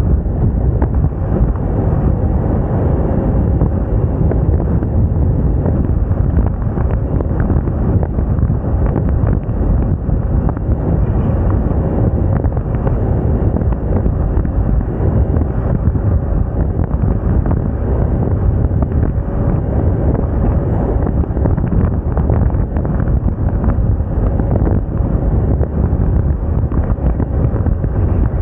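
Wind buffeting the microphone on a moving Moda Moca 110 scooter, a steady low rumble with the scooter's engine running beneath it.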